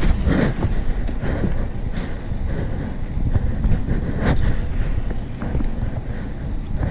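Wind buffeting the microphone of a head-mounted action camera while cycling on the road, a steady low rumble with road and traffic noise beneath and a few brief clicks.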